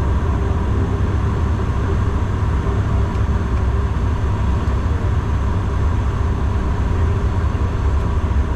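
Steady drone of a Bombardier Dash 8 Q400's Pratt & Whitney PW150A turboprop engines and propellers as heard inside the cabin: a heavy low rumble with a few steady tones over it.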